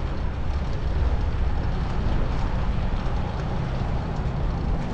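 Steady low rumble of wind buffeting the microphone while cycling, with city traffic noise behind it.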